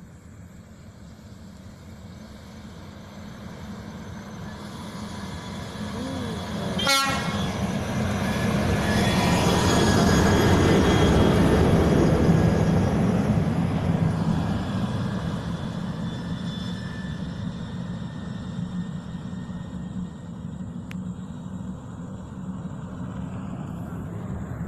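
Heavy coal-hauling truck approaching and passing, its engine and tyres growing steadily louder to a peak around ten to twelve seconds in, then fading. A brief sharp sound comes about seven seconds in.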